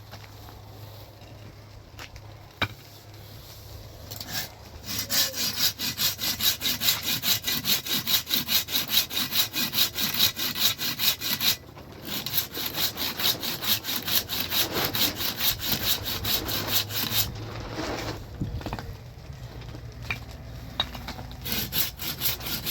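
Quick, rhythmic back-and-forth strokes of a hand saw cutting wood, in long runs that stop briefly twice. A sharp click comes early on.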